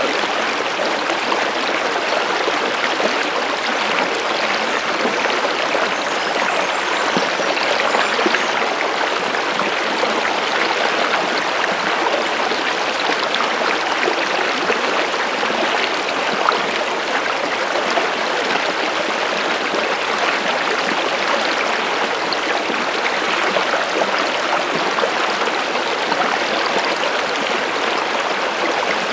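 Stream of water flowing steadily, a continuous even rush and trickle with no breaks.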